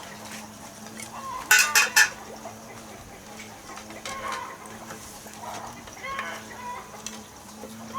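Chickens clucking on and off, with three sharp knocks in quick succession about a second and a half in.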